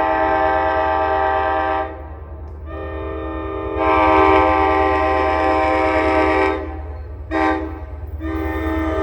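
NJ Transit train horn, a chord of several tones, sounding the long-long-short-long grade-crossing signal. The first long blast ends about two seconds in, the second runs about four seconds, the short one comes near the end and the last long one begins just after it. A steady low rumble from the train runs underneath.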